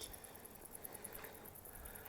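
Faint insects chirping in a fast, even, high-pitched pulse over quiet outdoor ambience.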